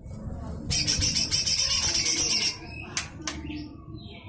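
Cucak hijau mini (lesser green leafbird) giving a harsh, rasping 'besetan' call, a rapid buzzy rattle lasting about two seconds from just under a second in, followed by a sharp click and a few short chips.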